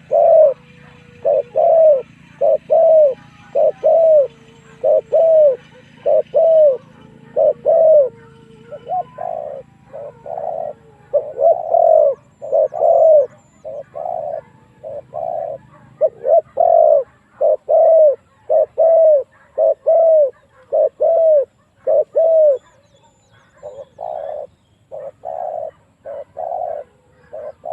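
Spotted dove cooing over and over in a long series of short, low, evenly spaced coo notes, a little under two a second, with a few short breaks and somewhat fainter notes near the end. It is the challenge call played as a decoy to draw wild spotted doves in to fight.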